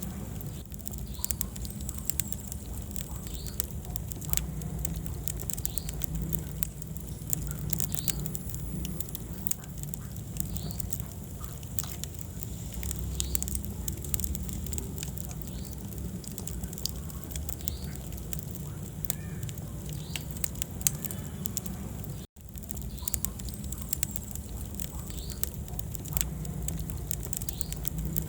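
Wood fire burning in a fireplace: irregular sharp crackles and pops over a low steady rumble of flames, with occasional short high squeaks. The sound cuts out for an instant about three-quarters of the way in.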